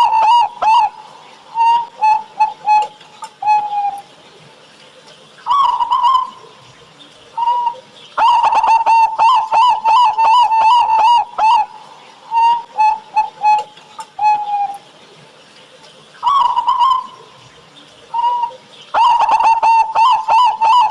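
Zebra dove (perkutut) cooing loudly in its repeating song: a long string of fast pulsing coos near 1 kHz, then several separate short coos and a single coo, the cycle coming round about every eleven seconds.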